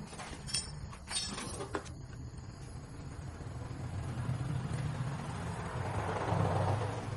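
A few light metallic clinks, then a vehicle's rumble that swells to its loudest about six seconds in and begins to fade.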